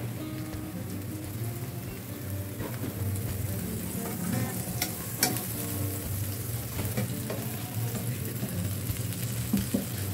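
Grated potato patty frying in butter and oil in a nonstick pan: a steady sizzle, with a couple of sharp clicks about halfway through.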